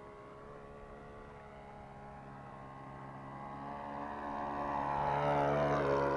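Single-cylinder ASP 61 four-stroke glow engine of a Seagull Decathlon RC model plane running steadily, growing louder as the plane approaches. Its note drops in pitch as it passes close by near the end.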